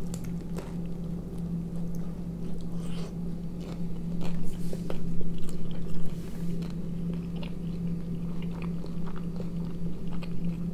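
A man biting into and chewing a rolled tortilla snack filled with sausage, onion, tomato and cheese, close to the microphone. Wet chewing with small irregular crunches and clicks, busiest about four to six seconds in.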